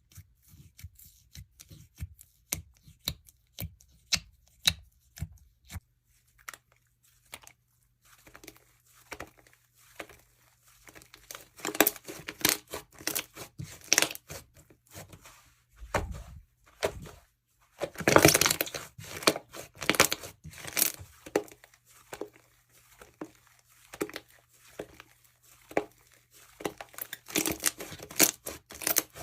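Hands squishing and pressing a bead-filled jewelry slime, making sharp clicks and crackling pops. The clicks are sparse at first, then turn into dense crackling about a quarter of the way in, with several louder bursts.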